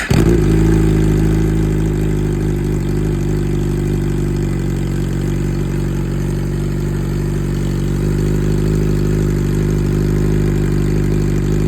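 Suzuki GSX-R1000R inline-four motorcycle engine catching right at the start after the starter cranks, then idling steadily on a cold start, loud and unmuffled with its muffler removed.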